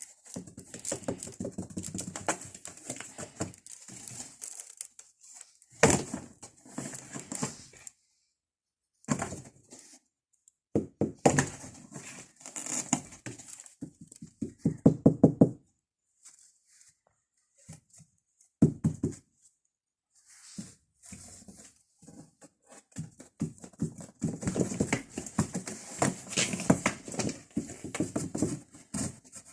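Domestic cat purring close to the microphone, a rapid pulsing that comes in bouts broken by short pauses.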